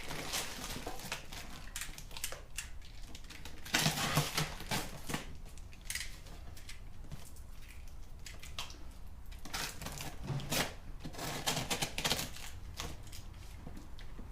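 A cardboard box being opened and its packed contents handled: irregular rustling, scraping and knocking, loudest about four seconds in and again around ten to twelve seconds.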